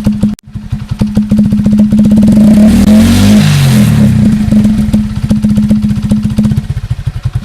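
Motorcycle engine running with rapid, even exhaust pulses. It is revved up once about two and a half seconds in, then drops back to a steady run.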